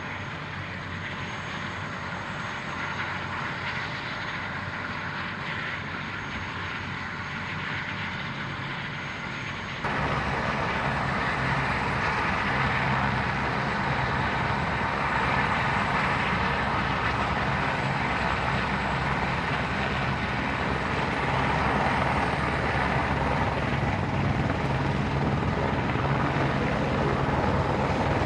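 Helicopter flying, a steady rotor and engine noise that jumps suddenly louder about ten seconds in.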